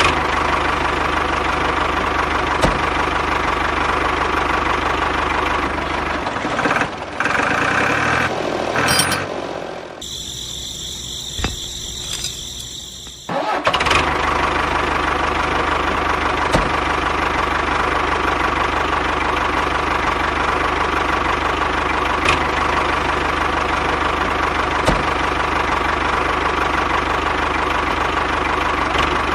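A small engine running steadily. The sound changes about six seconds in and drops to a quieter, different sound for a few seconds around the middle, then the steady running returns.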